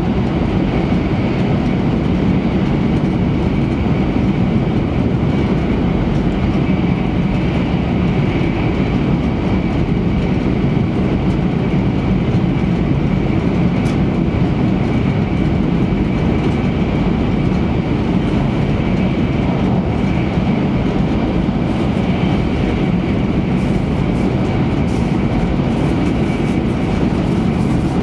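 Cabin noise of an E3 series Shinkansen running at speed, heard inside the car: a steady rumble of wheels and running gear on the track, with a faint steady high whine above it.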